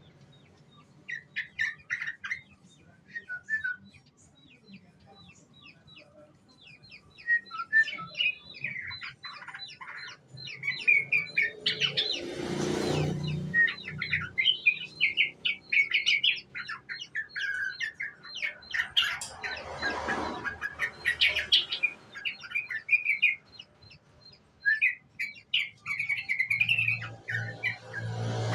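Young yellow-vented bulbul (trucukan) singing in quick, bubbly chirping phrases, used as a lure song to set other bulbuls singing. Three brief rushing noises come through the song, about halfway through, about two-thirds through and at the end.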